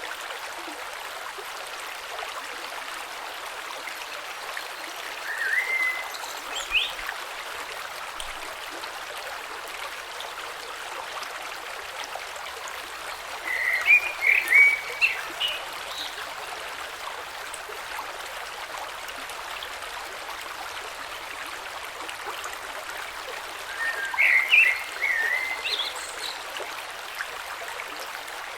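A creek running steadily over stones, with three short bouts of high chirping calls from a small animal standing out above the water about six seconds in, near the middle and near the end.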